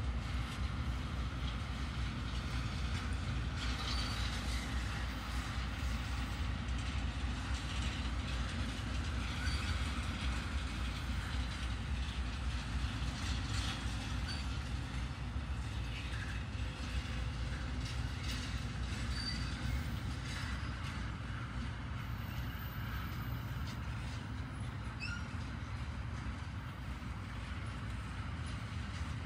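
Double-stack intermodal freight train rolling past: a steady rumble of the well cars' wheels on the rails, with scattered clicks and a few short, faint high wheel squeals.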